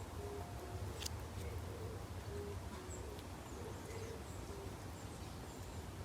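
Woodland ambience: faint high bird chirps over a low steady rumble, with a run of soft, short, low-pitched notes in the first two-thirds.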